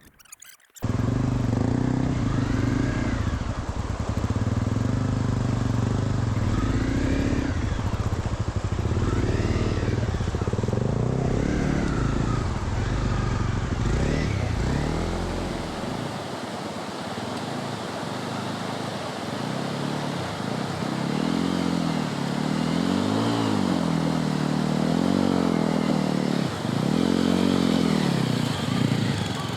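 Honda CRF250L single-cylinder motorcycle engine running while riding, starting abruptly at a cut. Over the second half the revs rise and fall repeatedly.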